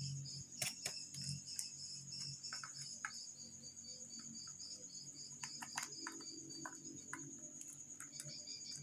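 A cricket chirping steadily in a high, evenly pulsed trill, with scattered small clicks and taps throughout.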